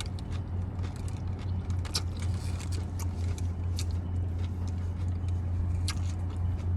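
Close-up chewing of a sandwich, with small mouth clicks and crackles, one sharper about two seconds in, over a steady low hum.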